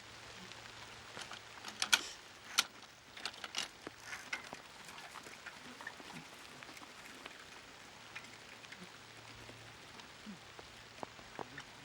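Rain falling steadily, with a cluster of sharp taps about two seconds in and a few more scattered later.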